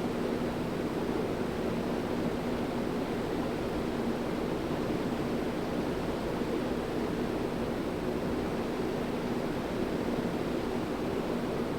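Hunter Greenwich 52-inch ceiling fan running: a steady rush of moving air with a low, even motor hum.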